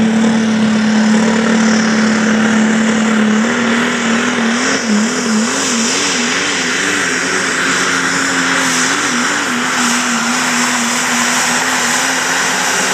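Pulling truck's engine running hard at high revs under load. It holds a steady high note, which starts wavering up and down about a third of the way in, settles, then wavers again briefly.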